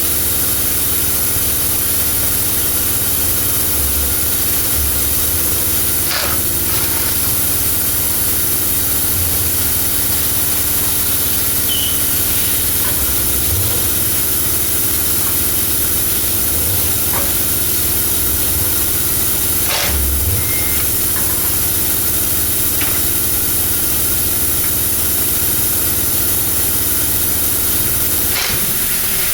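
A steady machine drone with a loud hiss over it, and a few sharp knocks, one about six seconds in and another about twenty seconds in.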